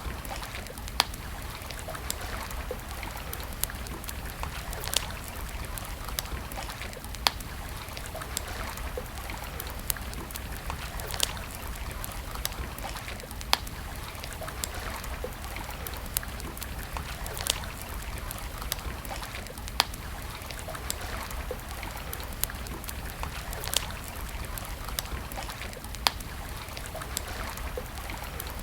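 Campfire burning, crackling with sharp wood pops every couple of seconds over a steady hiss.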